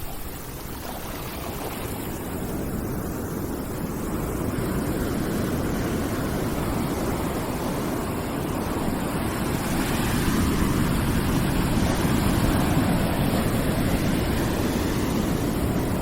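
Steady rushing noise with no distinct events, heaviest in the low end, slowly swelling louder over the first several seconds and then holding.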